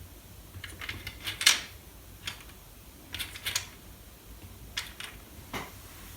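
Small plastic clicks and taps from handling the parts of a Commodore 64 keyboard key and its new plunger, coming in a few scattered clusters, the sharpest about a second and a half in.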